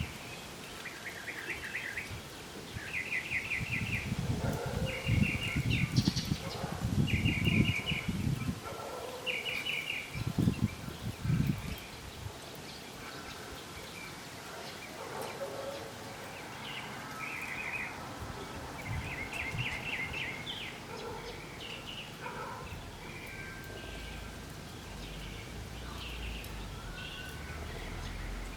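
Wind gusting on the microphone for the first dozen seconds, the loudest sound, while a bird repeats short, rapid trilled calls every second or two. Scattered fainter bird chirps follow after the wind eases.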